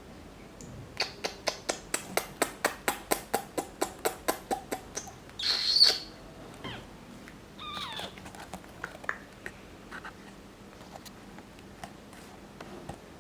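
Indian ringneck parrot calling: a fast run of sharp clicking calls, about five a second and fading, then one loud shrill screech, followed by a few falling whistles and short scattered chirps.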